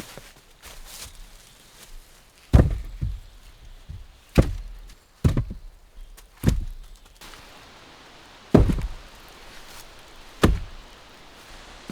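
Wood being chopped with an axe: six heavy blows, one to two seconds apart.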